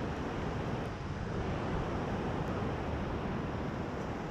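Sea surf washing onto a sandy beach, mixed with wind blowing across the microphone: a steady rush of noise.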